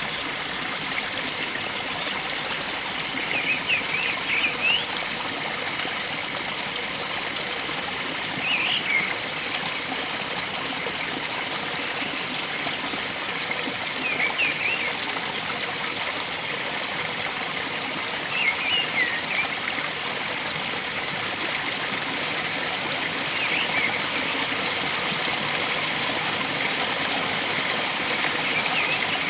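Steady rush of flowing stream water, with short clusters of bird chirps recurring about every four to five seconds over it.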